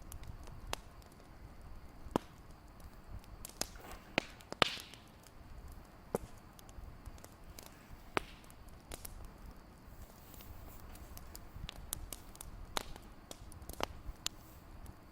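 Wood fire crackling, with irregular sharp pops and snaps over a low rumble; the loudest pops come about two seconds in and just before the five-second mark.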